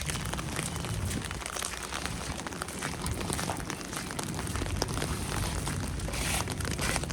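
Crunching, crackly sound of walking through snow, with many small scattered ticks and a steady low rumble underneath.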